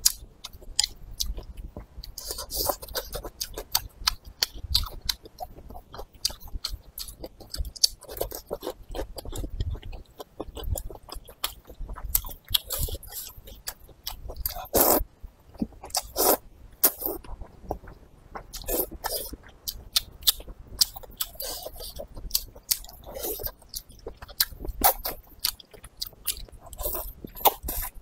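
Close-miked mukbang eating sounds: steady wet chewing and smacking of noodles and soft, gelatinous braised meat, with many small clicks and crackles, broken by several slurps of noodles.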